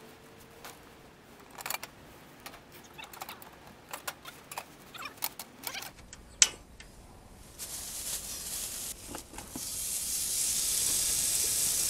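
Clicks and light clatter of a portable butane stove and grill pan being handled, with a sharp click about six seconds in as the stove is lit. A hiss then sets in and grows into loud sizzling from about ten seconds in, as spicy marinated webfoot octopus (jjukkumi) hits the hot grill pan.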